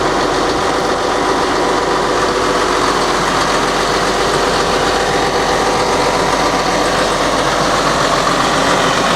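Excavator's Mitsubishi diesel engine running steadily, with an even drone that does not rise or fall.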